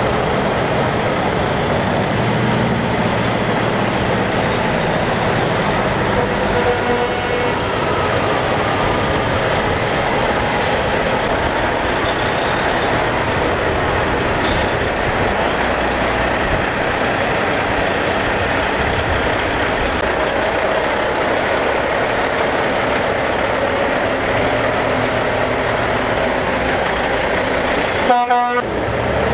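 Heavy diesel trucks rolling past in a steady stream, their engines running continuously, with a brief horn tone about seven seconds in. The sound breaks off briefly near the end.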